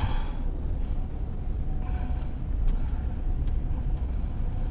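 Low, steady rumble inside a moving car with a window down: wind buffeting the microphone over road noise.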